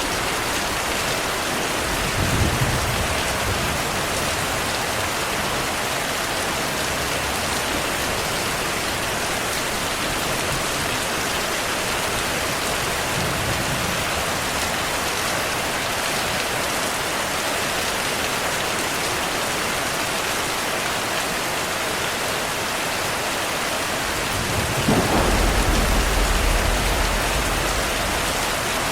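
Steady rain on a surface with rolling thunder. A short rumble comes about two seconds in, a faint one midway, and a longer, louder rumble near the end.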